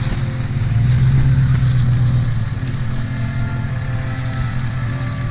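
Pickup truck engine running steadily, a little louder for the first two seconds or so, then settling lower.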